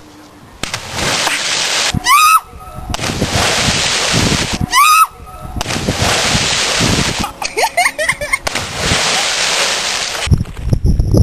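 River water splashing and sloshing around people jumping in and swimming, broken by two short high-pitched cries and some brief voices.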